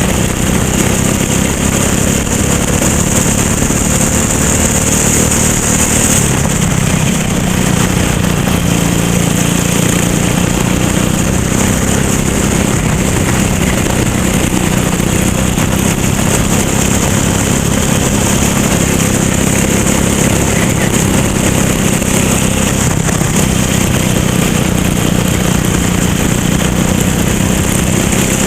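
Racing kart engine running at a fairly steady pitch, heard from on board, with a steady hiss over it.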